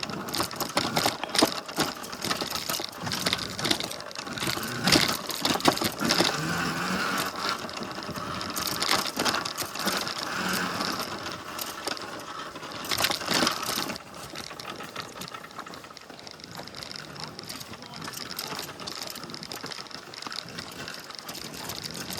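Tuttio Soleil01 electric pit bike ridden over a rough, root-covered trail: the motor whines while the bike rattles and knocks over the bumps. It gets quieter about 14 seconds in.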